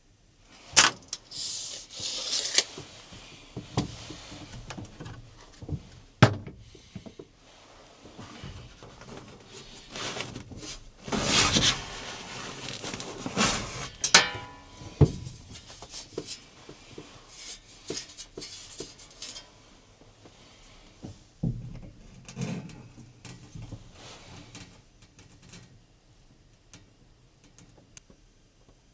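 Objects being handled at close range in a small enclosed space: a scattered series of sharp clicks and knocks mixed with rustling, with the busiest stretch a little past the middle.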